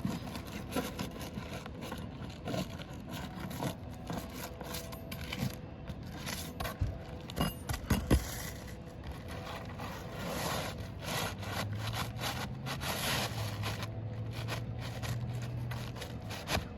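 3-tab asphalt shingles being lifted and pried from the roof deck, scraping with scattered clicks and knocks. A low steady hum joins in about two-thirds of the way through.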